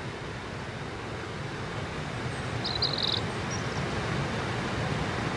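Steady rushing outdoor noise with no clear pitch, with a brief cluster of high chirps about three seconds in.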